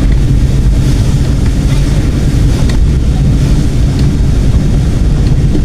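A vehicle driving along a road: a steady low rumble of engine and road noise, with a few small knocks.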